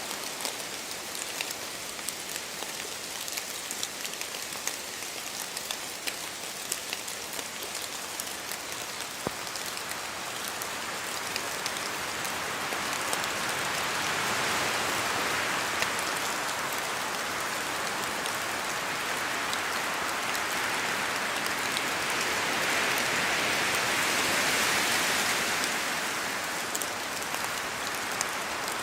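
Steady rain in a forest, with many drops pattering and dripping from the trees, and wind swelling through it: the rush grows from about a third of the way in, is loudest about three quarters through, and eases a little near the end.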